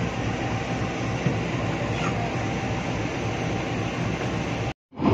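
Steady rumble and hum of a passenger train, heard from the doorway of a coach. It cuts off abruptly near the end.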